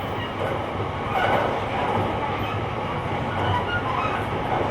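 Running noise of a JR Kyushu 885 series electric train (Hitachi-equipped car), heard from inside the car's vestibule: a steady rumble of wheels on rail with the hum of the traction equipment.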